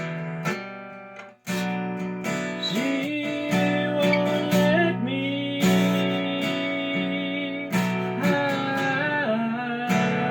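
Acoustic guitar strummed in an instrumental break, with no singing. The strumming stops for a moment about a second and a half in, then resumes, and a few notes bend in pitch over the chords.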